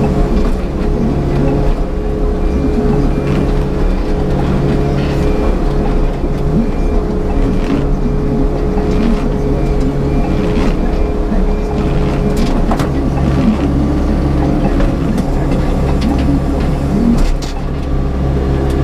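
Diesel engine of a Yanmar crawler excavator running steadily under working load, with scattered sharp knocks and clunks from the machine as it digs and moves clay.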